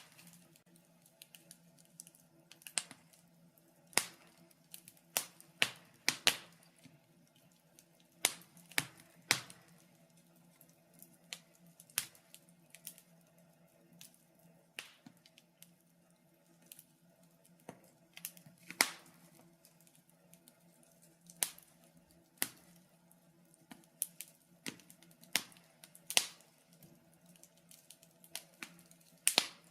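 Wood fire crackling in a fireplace: irregular sharp pops and snaps, a few every second or two, over a faint steady low hum.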